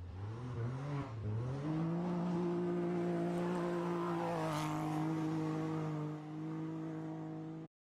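Off-road rally vehicle's engine revving in a few quick blips, then held at steady high revs, its pitch stepping down slightly about halfway; the sound cuts off abruptly near the end.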